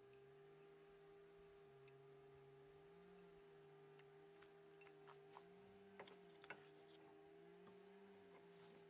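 Near silence: a faint steady hum, with a few small clicks about two thirds of the way through.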